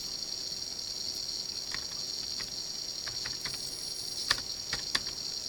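Steady high-pitched background drone with a handful of short, sharp clicks scattered through it, the loudest a little over four seconds in and another just before five seconds.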